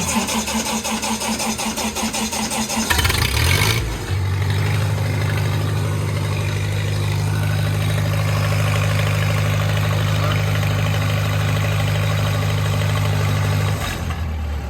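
Lincoln SA-200 welder's engine cold-starting: the starter cranks for about three seconds, the engine catches and picks up speed, then runs steadily. Near the end its sound drops as it settles.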